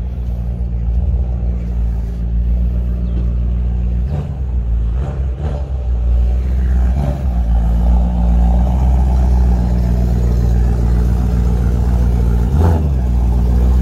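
A car engine running steadily with an even, low hum, a little louder from about halfway.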